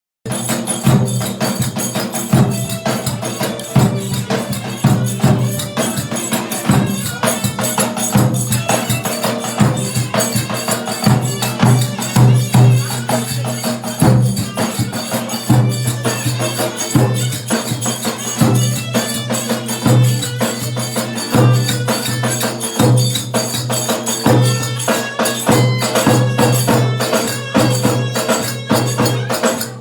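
Turkish folk dance music (oyun havası) with a continuous melody and busy, rapid percussion with tambourine-like jingles.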